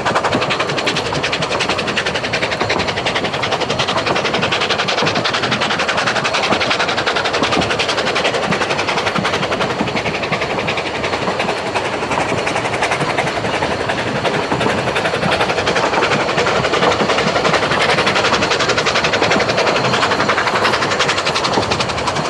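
Vale of Rheidol narrow-gauge steam train running steadily along the line: a continuous clatter of carriage wheels on the rails, heard from a carriage window.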